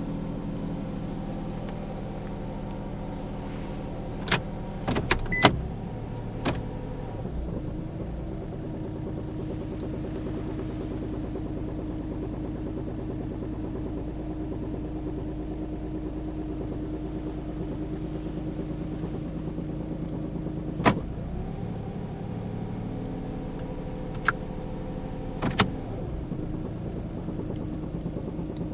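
Nissan Moco's three-cylinder engine idling in Drive at a standstill, with a light knocking (kotokoto) from the engine bay, the sign of a worn engine mount on the automatic-transmission side. Several sharp clicks come a few seconds in and again near the end, and the engine note changes after them.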